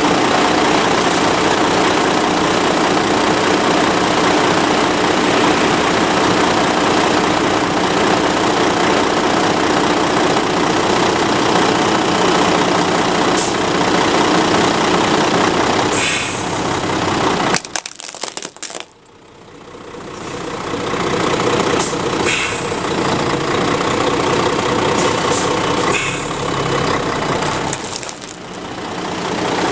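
A 10-ton truck's engine running loud and steady while its tyres roll over and crush plastic objects, with a few short cracks of plastic breaking. About two-thirds of the way through, the sound drops away abruptly and then swells back.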